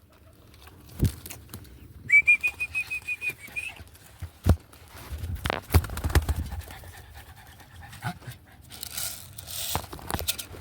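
A dog panting, with a few knocks and a brief fast run of high chirps about two seconds in.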